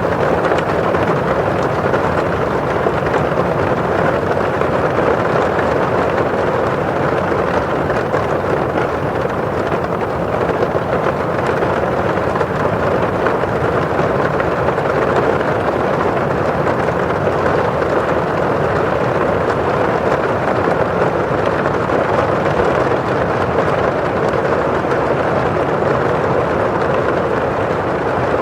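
Steady rain falling on a window pane and outside, an even, unbroken hiss of drops on the glass.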